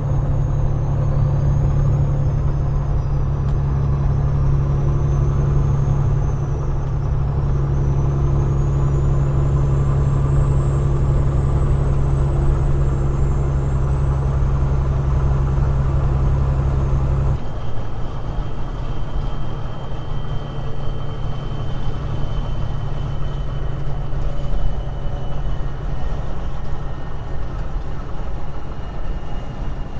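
Peterbilt 389 glider's diesel engine running under way, a loud steady low drone with a thin high whine. About 17 seconds in the drone drops abruptly to a lighter rumble with a lower steady whine.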